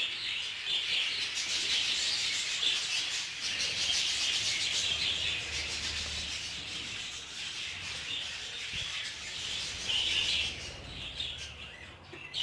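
A flock of budgerigars chattering and chirping continuously, a dense, busy twittering with no pauses.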